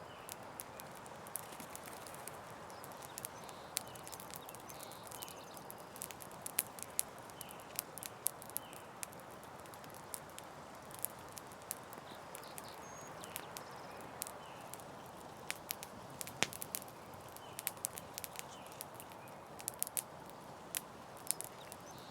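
Campfire crackling: a steady hiss of burning with frequent, irregular sharp pops and snaps.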